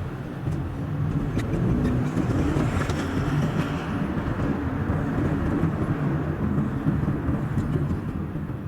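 Car engine and road noise from a car driving along at steady speed, sped up to double speed: a continuous rumble with a steady low hum.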